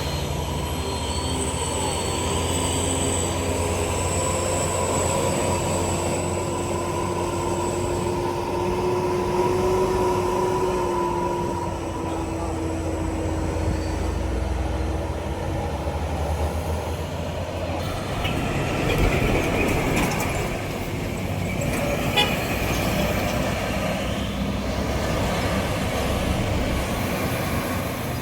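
Heavy trucks' engines running on a hill road, with a low rumble throughout and a steady whine that sags slightly in pitch over the first dozen seconds. A louder, noisier passing comes a little past the middle.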